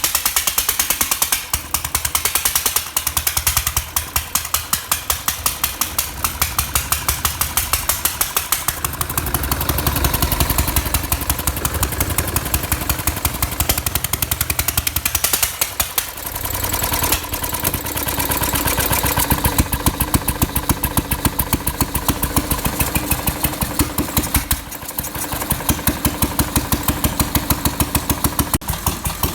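Lister D single-cylinder stationary engine running on its own, with a rapid, even beat of firing strokes. Its loudness briefly sags about halfway through and again near the end, then picks back up.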